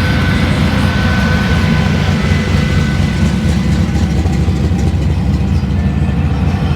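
Truck engine running at low speed close by: a steady low rumble.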